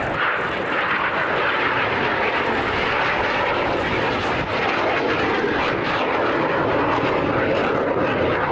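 Aircraft engine noise from an airplane in flight, steady throughout.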